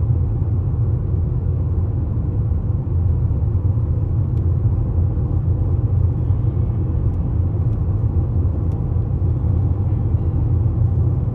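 A car on the move, its steady low road rumble unbroken throughout.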